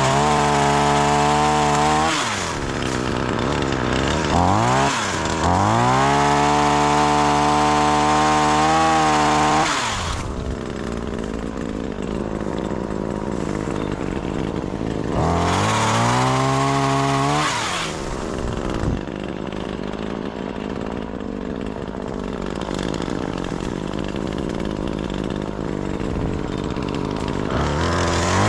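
Gas chainsaw revved to full throttle in several bursts, the longest about four seconds, dropping back to idle between them.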